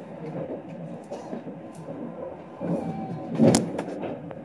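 Type 25T passenger coach running on the rails, heard from inside a sleeper compartment: a steady rumble of wheels on track with scattered clicks and one sharp, much louder clack about three and a half seconds in.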